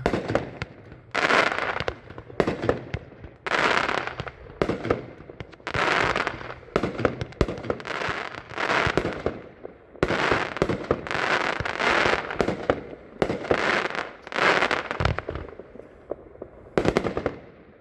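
A 25-shot consumer fireworks cake firing, with mine effects: a sharp report about every second, each followed by a short noisy burst, with a brief lull near the end before a final shot.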